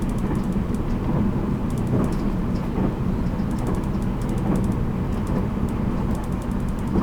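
783 series electric train running at speed, heard from its motor car: a steady low rumble with short runs of faint ticking every second or two.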